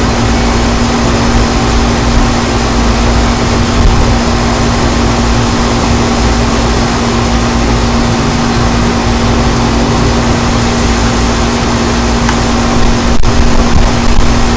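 Strong wind blowing over the microphone as a loud, steady rush, with a steady low hum under it.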